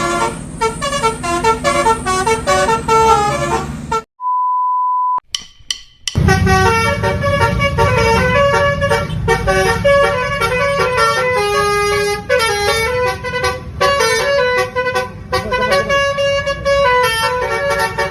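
Basuri telolet bus horn playing a melody of short, stepping notes over a steady low engine rumble. About four seconds in it breaks off for a second-long steady beep and a brief gap, then the melody starts again.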